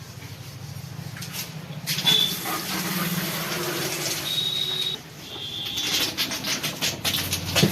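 Pressure washer motor humming while its jet sprays the scooter, starting about two seconds in, breaking off around five seconds, then spraying again in rapid sputtering pulses.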